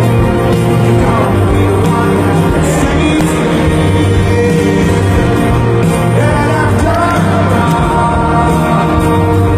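Live rock band playing with sung vocals, loud and steady, heard from within the audience of a large venue.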